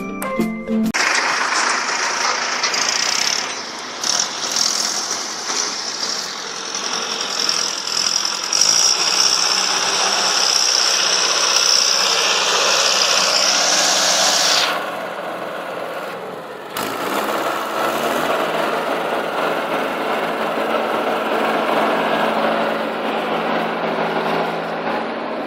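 Mahindra Arjun 555 DI tractor's diesel engine running under load, pulling a fully loaded sand trolley. A strong hiss rides over it until about halfway; after a sudden break near two-thirds of the way, the engine runs on more steadily.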